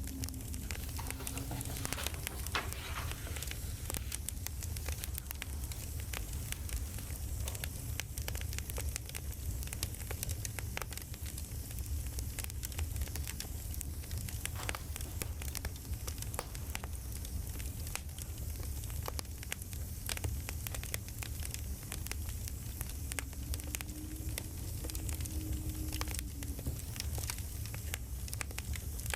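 Campfire crackling: a steady low rumble with frequent small pops and snaps throughout.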